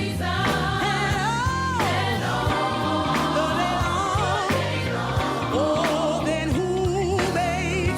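Gospel music with vocalists singing, with vibrato, over a steady bass and band accompaniment.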